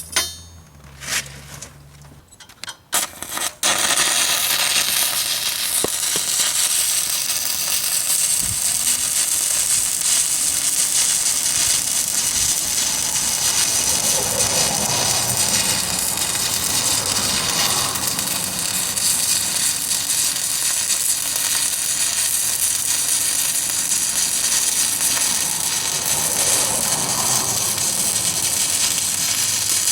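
Stick-welding arc of a 7018 electrode run at 140 amps from a Miller Syncrowave 210, crackling steadily as the rod is dragged along a cap pass. A few short crackles at first, then a continuous, even crackle from about four seconds in.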